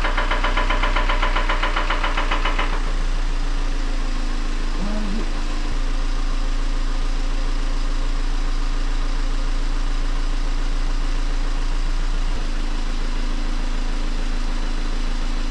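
Mazda MX-5 NC engine idling just after starting on fresh oil following an engine flush. A fast, rattly clatter over the idle for the first couple of seconds then drops away to a steadier run, but the unhealthy engine noise is still there, only quieter.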